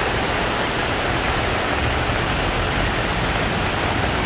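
Heavy rain pouring down steadily onto a flooded street, a dense even hiss. A low rumble runs underneath, growing stronger from about halfway through.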